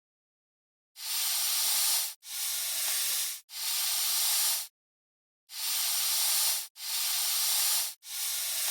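An animal hissing: six long, even hisses of about a second each, in two sets of three with a short pause between them.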